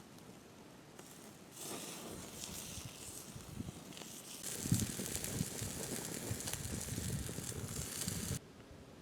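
Sausage sizzling on a grill: a crackling hiss that starts about a second and a half in, grows louder about halfway through, and cuts off suddenly near the end.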